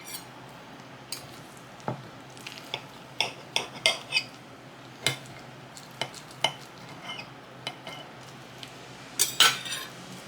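Cutlery clinking and scraping on a plate while food is cut and eaten: scattered sharp taps, with a louder run of clinks near the end.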